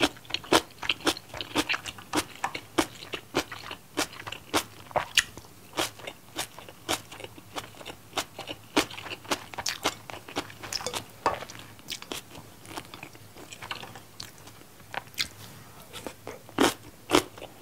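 Close-miked mouth sounds of a person chewing kimchi and rice: irregular crunchy, wet clicks, several a second.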